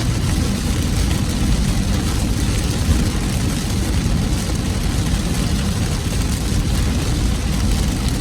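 Steady noise inside a car driving in rain: a low rumble from the road and engine under an even hiss of rain on the car's body and windshield.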